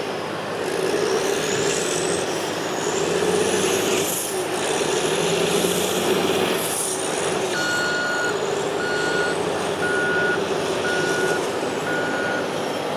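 Diesel heavy equipment working: a steady engine drone with a high whine that rises and falls. Past the middle a backup alarm beeps five times, about once a second, from a machine reversing.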